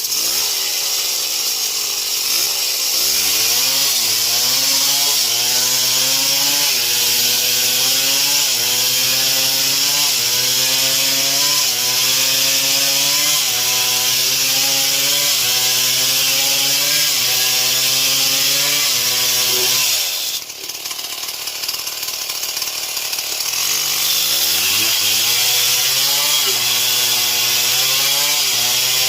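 Stihl MS 070 two-stroke chainsaw cutting wood under load, its engine pitch rising and dipping in a steady rhythm over a hiss of chain and chips. About two-thirds through, the engine drops off and falls in pitch, then revs back up a few seconds later and cuts again.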